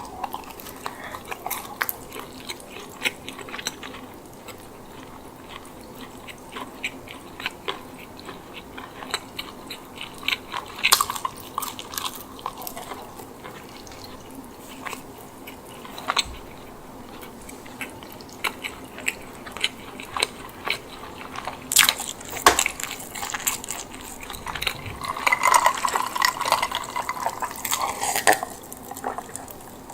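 Close-miked chewing of a chicken bake, soft bread filled with herb chicken and mozzarella, with many short sharp mouth clicks. The sound grows denser and louder near the end.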